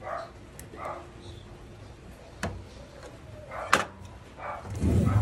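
Two sharp knocks about a second apart, the second louder, as things are handled and set down, with a dog barking in short bursts in the background and a low thump near the end.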